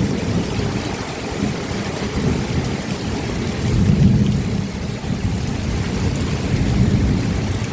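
Steady rain falling, with low rolling thunder rumbling underneath that swells about four seconds in and again shortly before the end.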